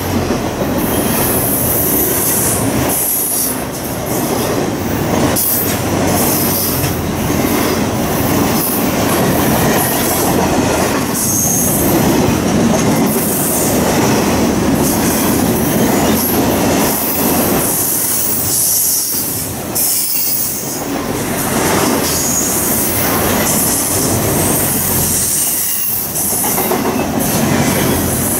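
A train rolling past, loud and steady throughout, with its wheels squealing on the rails and a clatter of wheels over the rail joints.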